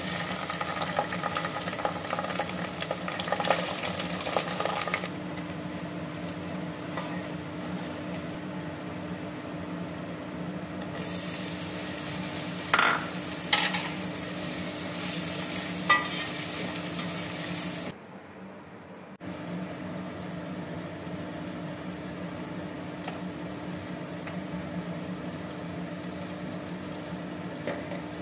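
Onions and ginger-garlic paste frying in oil in a stainless steel pot: a steady sizzle, with a spoon stirring and scraping the pot for the first few seconds. A few sharp knocks come later, and the sound drops out for about a second after the middle.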